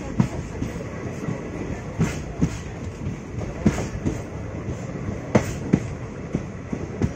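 Indian Railways passenger train running along the track, heard from the coach: a steady rumble of wheels on rail with sharp clickety-clack, the clicks coming in pairs about every second and a half as the wheels cross rail joints.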